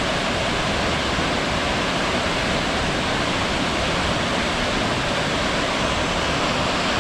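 Ranger Falls waterfall: a steady, unbroken rush of falling water.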